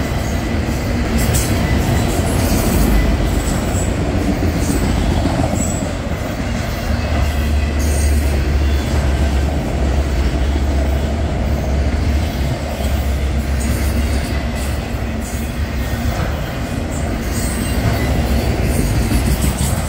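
Freight train of autorack cars rolling past at close range: a steady loud rumble of steel wheels on the rails, with a faint thin wheel squeal and scattered clicks over it.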